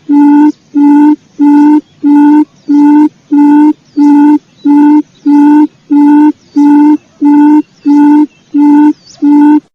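Recorded quail lure call: a low, steady hooting note repeated evenly about twice a second, which cuts off abruptly near the end.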